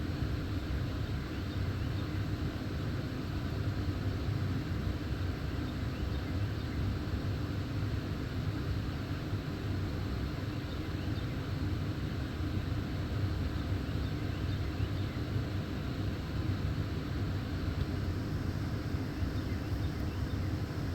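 Steady low rumbling background noise with no clear drumming or knocking.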